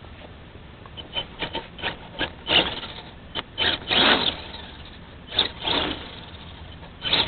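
Electric RC truck's motor and drivetrain whirring in about a dozen short, irregular bursts, a few of them longer, as the throttle is blipped.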